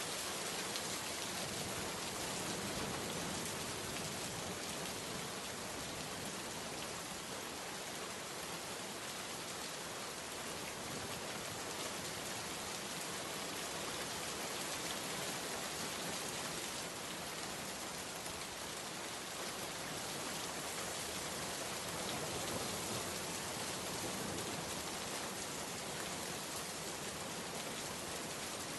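Steady heavy rain falling, a dense even hiss of drops on surfaces with no breaks or thunder.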